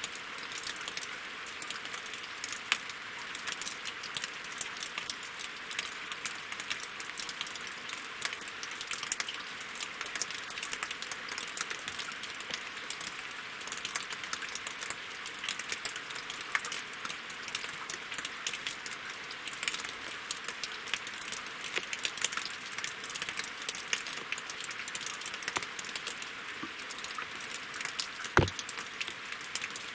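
Rain falling on lake water and wooden logs: a steady hiss thick with close, crisp drop ticks, and one louder drop near the end.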